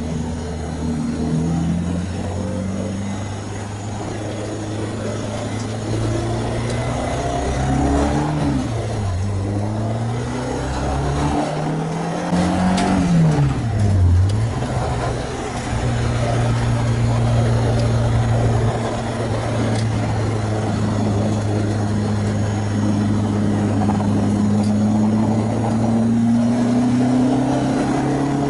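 Renault Clio 2 RS MiniCup's freshly rebuilt 2.0-litre four-cylinder engine running hard on track during its first test. The pitch rises and falls sharply twice in the first half, as with shifts and braking, then holds and climbs slowly under a long pull.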